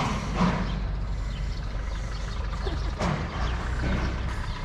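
Motor vehicle engine running, a steady low rumble, with a few brief faint sounds over it about half a second and three seconds in.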